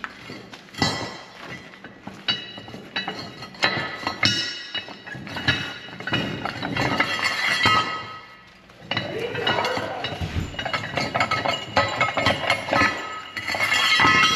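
Metal parts clinking and clanking: repeated sharp knocks, each ringing briefly, coming in dense runs with a short pause about nine seconds in.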